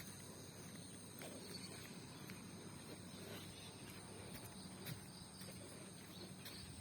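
Faint rural morning ambience: a steady high insect chirring, with scattered light clicks.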